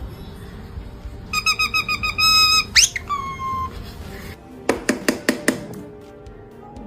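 Pet parrot whistling: a quick run of short beeping notes, then a whistle sweeping steeply upward and a lower note trailing off. A couple of seconds later comes a brief burst of rapid sharp clicks.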